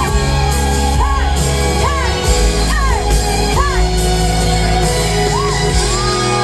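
Live pop band playing an instrumental passage in a large hall, a lead line rising and falling in short arches about once a second over a steady backing, with shouts from the crowd.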